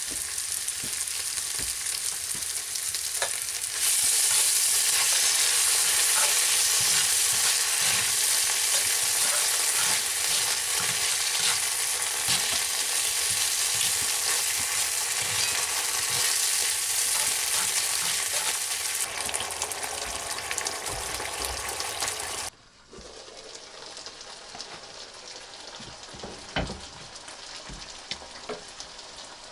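Food frying in hot oil in a pan: a dense, steady sizzle with scattered pops. It gets louder a few seconds in, then drops suddenly to a quieter sizzle with occasional crackles for the last several seconds.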